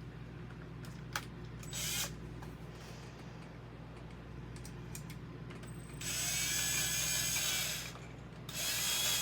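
Power drill with a screwdriver bit driving a bracket screw in short runs. There is a brief burst about two seconds in, a longer whining run of about two seconds past the middle, and another short burst near the end. The screw does not seat, which she suspects means it is stripped.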